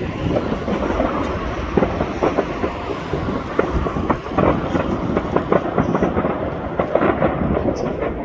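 A dense barrage of fireworks: many sharp bangs and crackles packed closely together, running into a continuous rumble.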